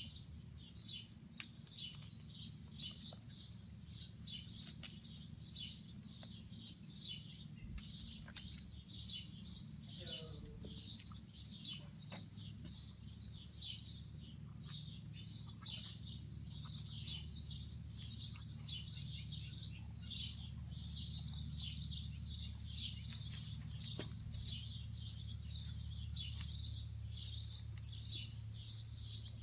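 Small birds chirping continuously, many short calls overlapping, over a steady low hum.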